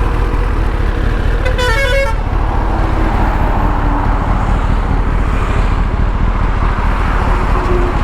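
Steady road-riding rumble of a vehicle engine and wind, with a short, wavering vehicle-horn toot about a second and a half in.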